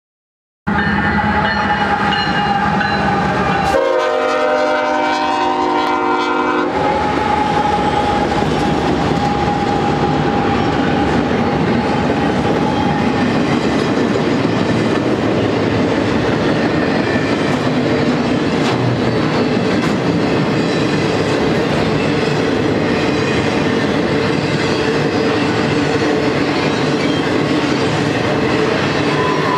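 BNSF freight train's air horn sounding one chord about four seconds in, lasting about three seconds. After the horn, the double-stack intermodal train rolls past at speed, its wheels clattering over the rails with a steady rumble.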